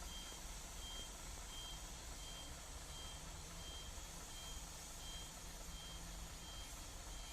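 Vehicle reversing alarm beeping steadily, a short high beep about every 0.7 seconds, over a faint low rumble.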